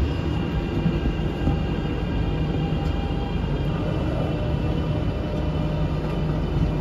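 Beijing Subway Line 6 metro train running, heard from inside the car as it nears a station: a steady low rumble with a thin, even whine of high tones above it.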